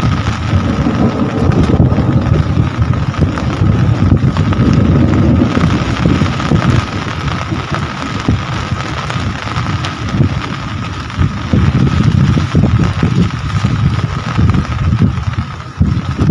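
Heavy rain falling, with gusty wind rumble on the microphone and a steady high tone under it.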